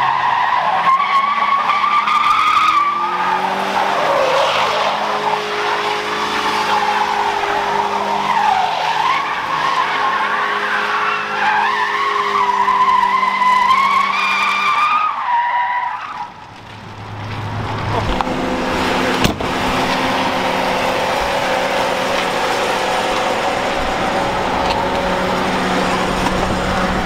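Pickup truck's stock 5.3-litre V8 held at high revs while the tires squeal in a long, wavering screech as the truck spins donuts. After about sixteen seconds the squeal stops and the engine dips briefly, then runs on at steady high revs with a single click partway through.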